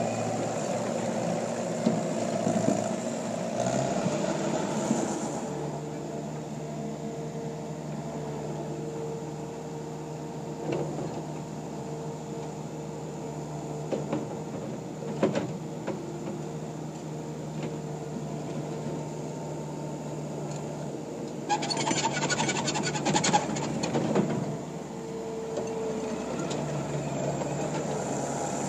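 Takeuchi TL150 compact track loader's diesel engine running steadily, with a few short clicks. About 22 seconds in it gets louder and rougher for two or three seconds as the machine works, then settles back.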